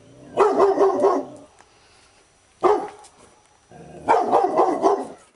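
Labrador retriever barking in three bouts: a quick run of barks, a single bark, then another quick run of barks.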